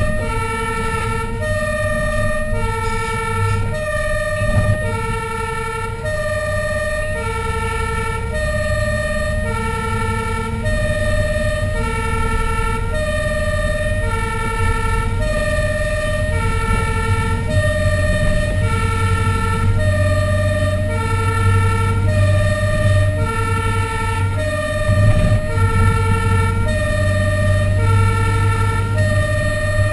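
Fire engine's two-tone hi-lo siren, switching back and forth between two pitches a little under once a second, over the steady hum of the truck's engine.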